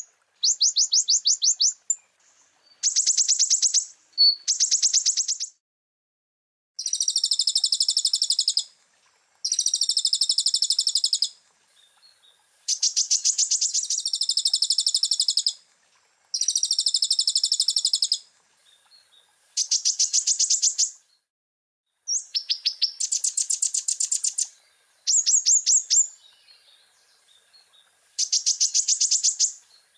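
Konin (kolibri ninja sunbird) singing: a dozen or so very rapid, high-pitched trills, each lasting about one and a half to two seconds, with short pauses between them.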